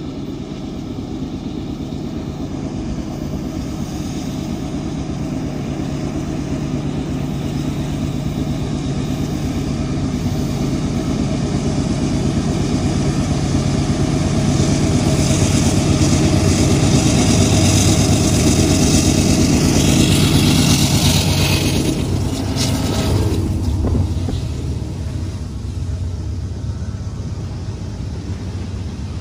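Passing train: a diesel locomotive's engine rumble builds, is loudest from about halfway to three-quarters of the way through, then fades away.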